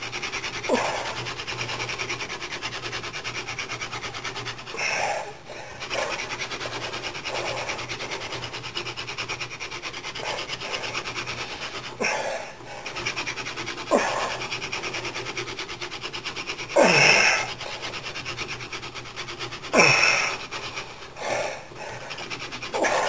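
Wooden hand-drill spindle spun back and forth between the palms in a fireboard notch: a continuous rapid rubbing grind, broken several times by a short sound that falls steeply in pitch. It is friction-fire drilling, working the wood dust toward an ember.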